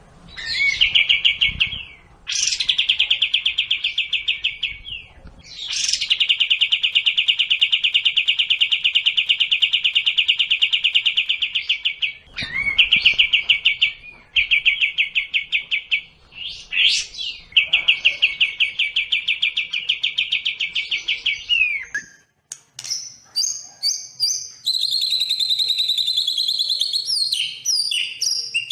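Recorded song of sekoci and white-rumped shama (murai batu): a run of fast, buzzy trills, each held one to several seconds with short breaks between. After about 22 seconds it changes to quicker, varied whistled notes and slurs that climb higher.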